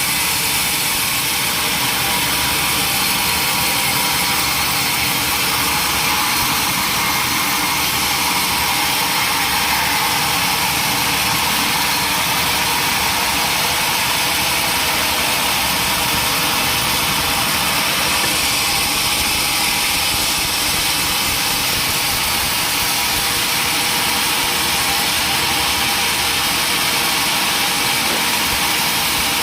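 Sawmill machinery running steadily, a loud, even mechanical noise with a faint high whine.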